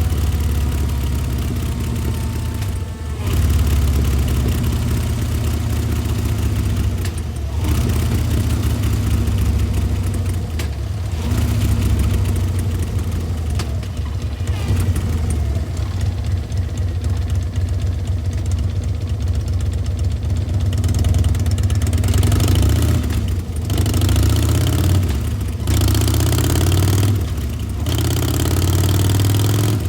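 2007 Harley-Davidson Dyna Low Rider's Twin Cam 96 V-twin idling through Chrome Works 3-inch slip-on mufflers, with a deep, loping exhaust note. The throttle is blipped now and then, more often near the end.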